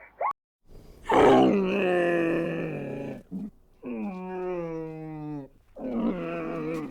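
A farm animal giving three long, drawn-out calls, the first the loudest and longest.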